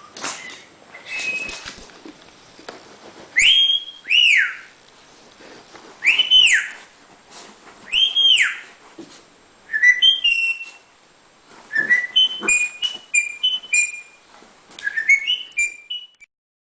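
Pet bird whistling: four loud arched whistles that rise and fall, then quicker runs of short chirpy notes.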